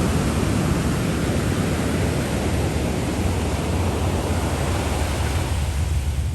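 Wind buffeting the microphone over rushing sea water, a steady low rumble with hiss above it. The hiss thins near the end while the rumble carries on.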